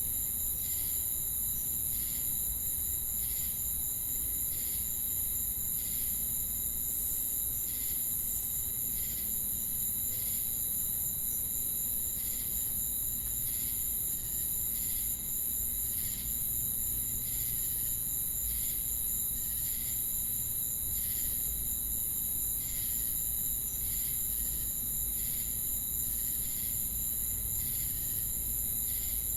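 Chorus of crickets and cicadas: a steady, very high-pitched insect trill runs throughout, with an even, slower chirp repeating about once every 0.7 seconds beneath it.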